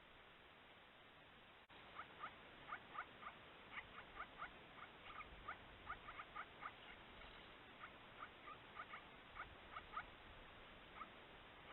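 Small birds calling in a faint, irregular run of short, high squeaky chirps, several a second, starting about two seconds in after a brief break in a faint hiss.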